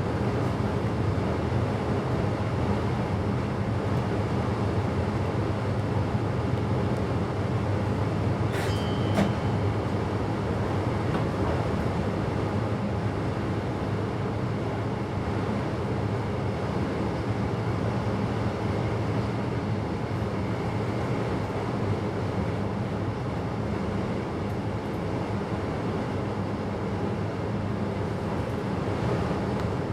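Passenger train running steadily between stations, heard from inside the driver's cab: a continuous rumble with a low hum. About nine seconds in there is a brief click with a short high tone.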